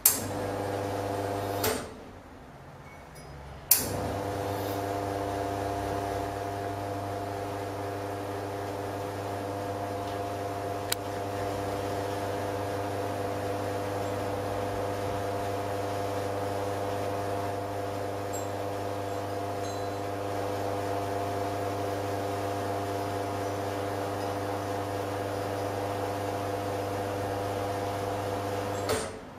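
Espresso machine pump humming in a programmed pre-infusion cycle: a short burst of about two seconds, a pause of about two seconds, then it starts again with a click and runs steadily through the shot extraction for about 25 seconds before cutting off.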